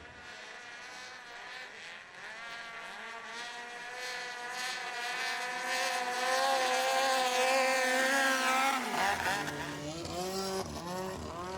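Engine of a Thai longtail racing boat running hard at high revs. It grows louder to a peak about seven to eight seconds in, then eases, with short rising revs near the end.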